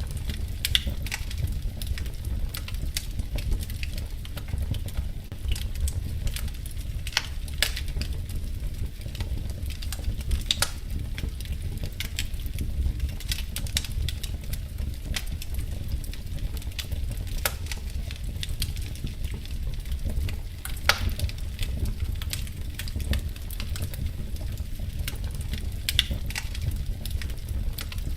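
Wood fire crackling in a fireplace: irregular sharp pops and snaps every few seconds over a steady low rumble.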